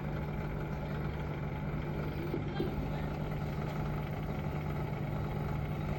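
Samsung EcoBubble washing machine running with a steady hum from its direct-drive motor, which has a newly fitted stator and rotor.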